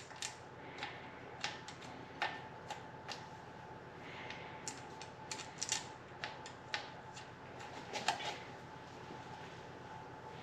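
Scattered light clicks and ticks of a hand tool working small 5 mm Allen-head bolts into an engine's camshaft and rocker assembly, coming at uneven intervals over a faint steady hum.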